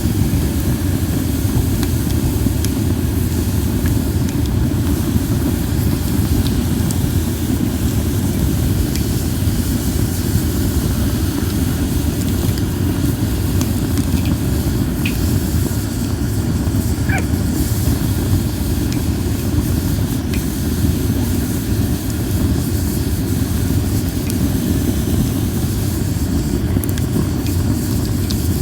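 Linden wood campfire burning with a steady low roar of flame, with a few faint crackles and a brief thin whistle about 17 seconds in.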